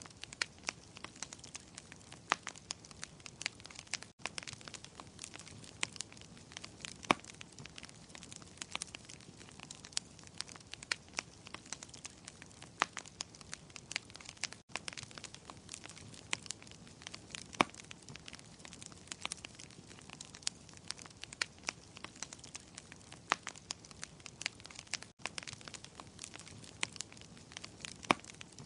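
Wood fire in a fireplace crackling: irregular sharp pops and snaps of varying loudness over a soft steady hiss. There are three very short dropouts, about ten seconds apart.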